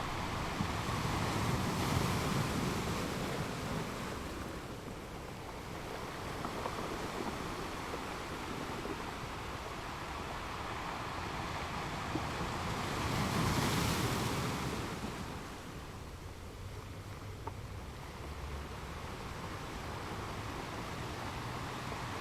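Sea waves breaking on the shore, with two waves swelling and washing out, one about two seconds in and one past the middle.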